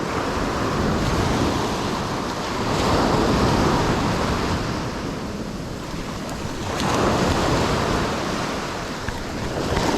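Ocean surf washing onto the beach, swelling about three seconds in and again about seven seconds in, with wind buffeting the microphone.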